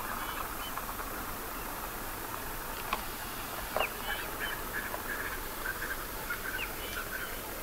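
A car engine idling steadily as a low hum underneath, while birds give short chirping calls throughout.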